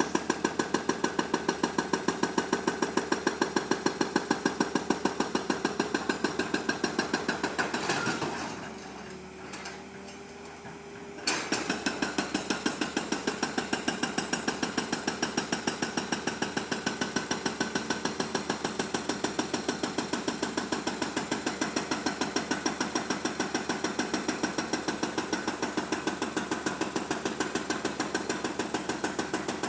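Excavator working with a fast, even mechanical knocking. It drops away for about three seconds, leaving only a faint steady hum, then starts again suddenly at full strength.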